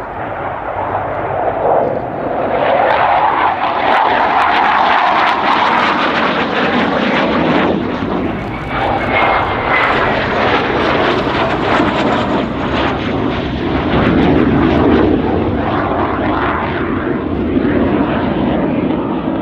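Loud jet noise of a Hawker Hunter F.6A's Rolls-Royce Avon turbojet as the fighter flies past, its pitch dropping through the second half as it passes and moves away.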